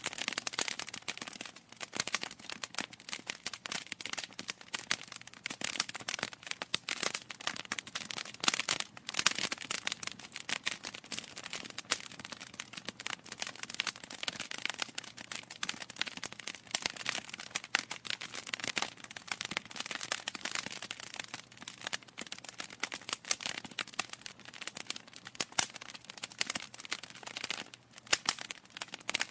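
Wood fire in a fireplace crackling: dense, irregular pops and snaps of burning logs over a soft hiss.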